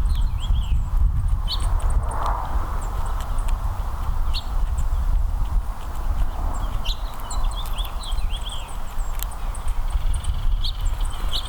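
Small songbirds chirping in many short, high calls over a steady low rumble, with a few faint clicks.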